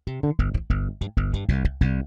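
EZBass sampled electric bass playing a modern funk bass line from a MIDI pattern: a quick run of short, punchy plucked notes with sharp attacks.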